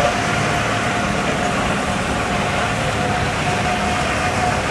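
Steady, dense vehicle noise with a thin, steady high whine running through it.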